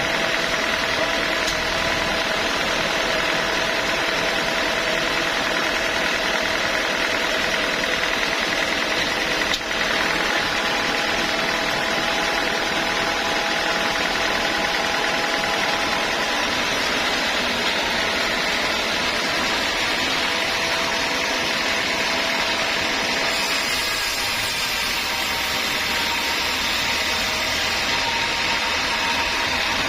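Homemade band sawmill running steadily, its motor and blade giving a continuous machine sound with a few steady tones; the sound shifts slightly about three-quarters of the way through.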